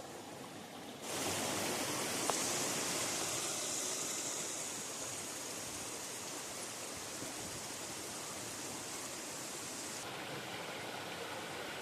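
River water rushing and gurgling over rocks, a steady hiss that jumps suddenly louder about a second in and turns duller near the end, with a single small click early on.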